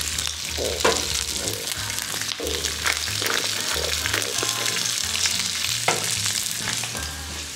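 A cauliflower steak sizzling as it fries in a hot skillet: a steady hiss, with a few light knocks.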